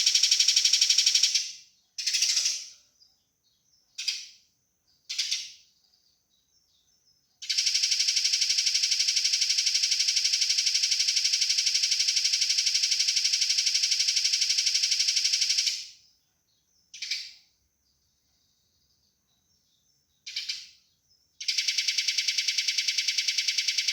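Eurasian tree sparrows chattering in a fight, a fast, dense run of harsh high chirps. Long runs are broken by a few short bursts and gaps: one run stops about a second in, a long run goes from about 7 to 16 seconds, and another starts near the end.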